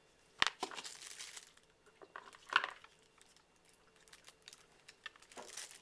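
Plastic packaging crinkling and plastic action-figure parts being handled: a sharp click about half a second in, followed by rustling, a louder crinkle about two and a half seconds in, and a little more rustling near the end.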